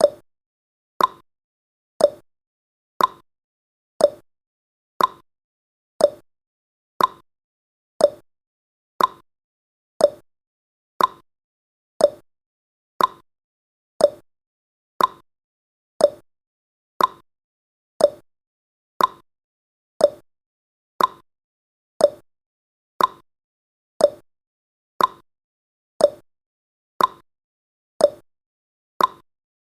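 Countdown timer's clock tick-tock sound effect: one short, sharp tick every second, alternating between a higher and a lower tick.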